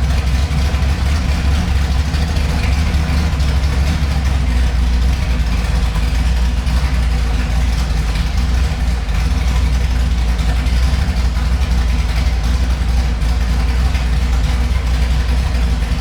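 Ford GT40 Mark IV race car's V8 idling steadily and loudly, heavy in the low end, just after a cold start.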